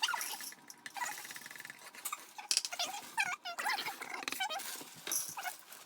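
A pet dog whining: a run of short, high-pitched whines that rise and fall, starting about two and a half seconds in.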